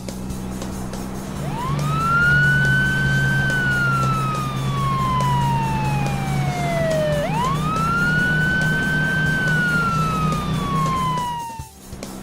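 Siren wailing in two slow cycles, each rising quickly, holding, then falling slowly, over a steady low hum.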